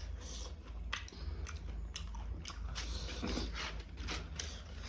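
Close-up chewing of a mouthful of rice and egg curry, with repeated wet mouth clicks, over a steady low hum.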